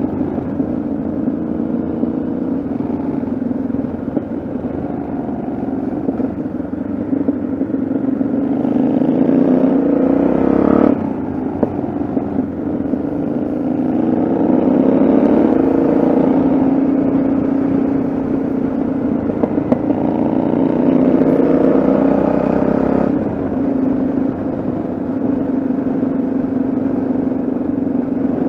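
Yamaha XT660Z Ténéré's single-cylinder engine under way, its pitch climbing as it accelerates and dropping suddenly at a gear change about a third of the way in, then climbing again twice more before another sudden drop near the end.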